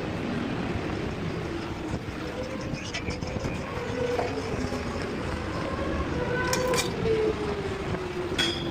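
Steady rumble of vehicle noise, with a faint tone that sinks lower toward the end and a few short clicks.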